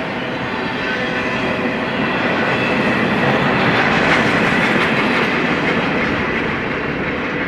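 Double-stack intermodal freight cars rolling past on steel rails: the steady rumble and clatter of the wheels on the track, with a faint ringing tone above it, growing to its loudest about four seconds in and then easing off.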